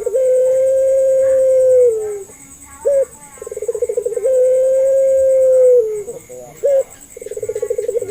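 Puter pelung (Barbary dove) cooing over and over. Each call is a short upturned note, a fast rolling trill, then a long held coo that drops at the end, coming about every three and a half seconds.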